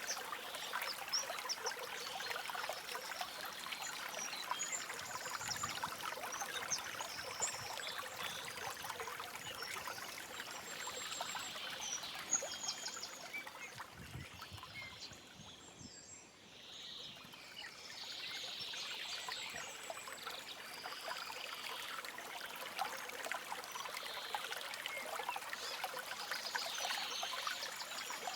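Forest stream trickling and babbling over stones, with short high bird chirps scattered over the water. The water sound dips briefly about halfway through, then returns.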